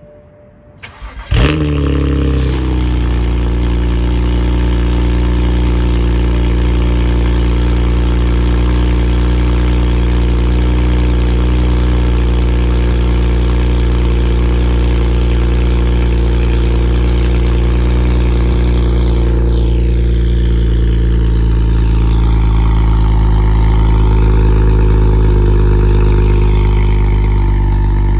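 A 2008 BMW 135i's twin-turbo 3.0-litre straight-six starting from cold, with catless downpipes and the stock muffler: a brief crank about a second in, a loud flare as it catches, then a steady cold idle.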